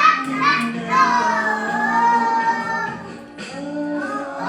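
A child singing an alphabet phonics song over backing music, holding long notes in the middle.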